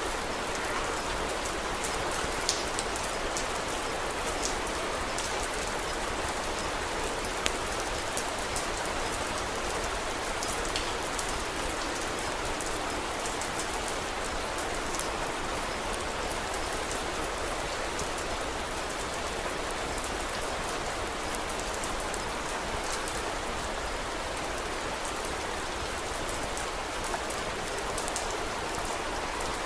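Steady rain falling, with small sharp crackles of a wood fire scattered through it.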